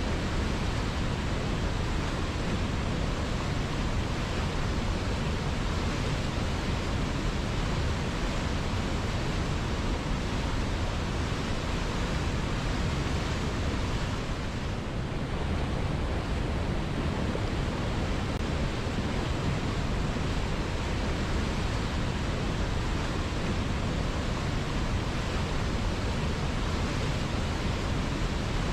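River water flowing in a steady, even rush that is strongest in the low range, with a slight brief softening of the higher hiss about halfway through.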